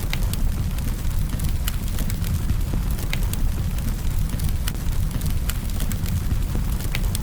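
Campfire burning with a steady low rumble and scattered sharp wood crackles and pops, several a second at irregular intervals.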